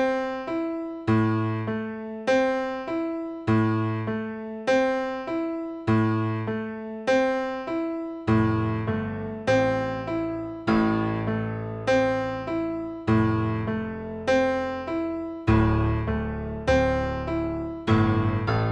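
Instrumental piano music: a steady run of struck notes, each fading before the next, with deeper bass notes joining about eight seconds in.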